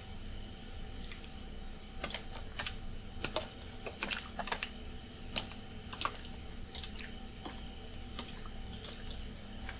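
Water bottle being handled and shaken: irregular clicks and taps with some water movement, over the steady hum of an air conditioner.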